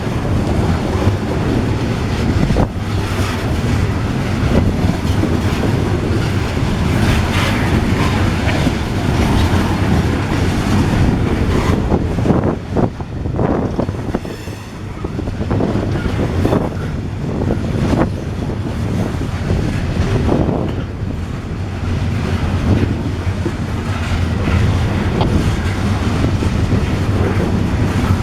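Freight train cars rolling past with a steady rumble and clickety-clack of wheels over rail joints, easing briefly about halfway through.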